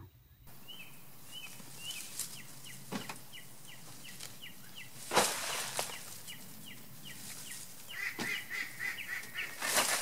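A bird chirping over and over in short, falling calls, a few a second, coming faster near the end. Mixed in are a few brief rustles and knocks of dry potato plants being pulled out of fabric grow bags, the loudest about five seconds in.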